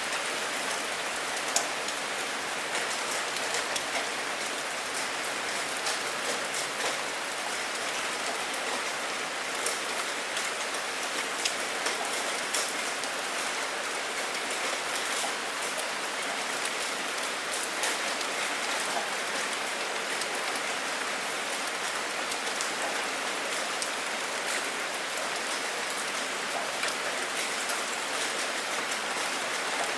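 Steady rain falling: a dense, even hiss with individual drops ticking sharply through it.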